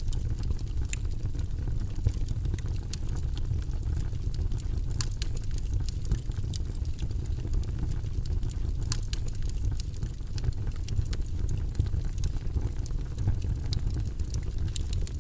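Fire burning in a fireplace, crackling: a steady low rumble with frequent small, irregular pops and snaps.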